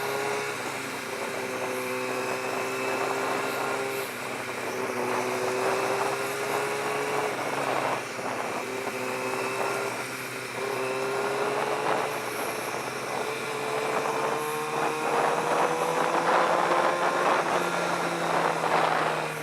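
Inline-four sport-bike engine running at high revs under way, its pitch climbing slowly and dropping back several times as gears change, with wind rush over it.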